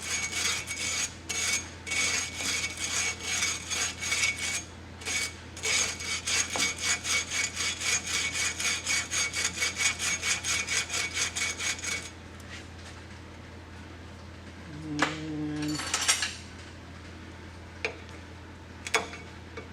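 Hand tool scraping crusty buildup off the truck's front brake parts in fast, even back-and-forth strokes, about three a second. The scraping stops about twelve seconds in, followed by a brief hum and a few light clicks.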